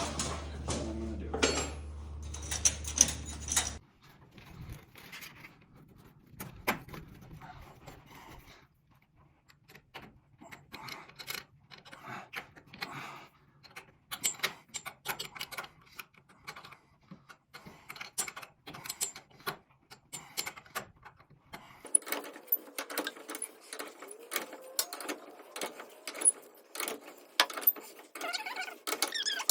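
Irregular light clicks, knocks and small metallic rattles from hands-on work on garage door hardware, with a steady low hum that stops about four seconds in.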